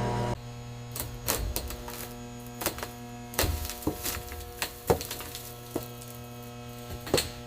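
Irregular sharp knocks and clicks, about a dozen, over a steady hum that drops in level about half a second in.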